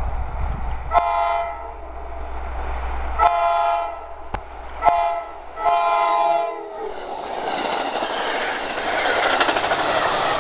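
New Jersey Transit Atlantic City Line passenger train sounding its horn for a grade crossing in the standard long, long, short, long pattern, four blasts in all. About seven seconds in the horn stops and the train's cars rush past close by with the rumble and clatter of wheels on rail.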